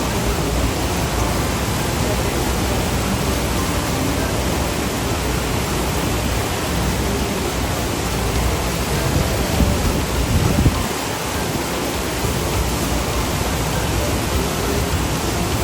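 Steady rushing noise with no clear pitch or rhythm. It swells briefly about ten seconds in.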